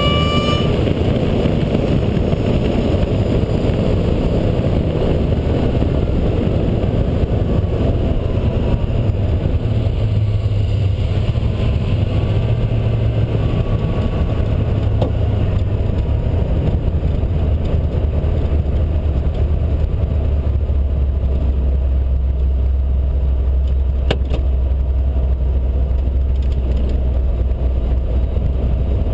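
Drag car's engine heard from inside the cabin, off the throttle after a full-power pass. It runs at low revs with a low, steady rumble, along with road and wind noise as the car slows.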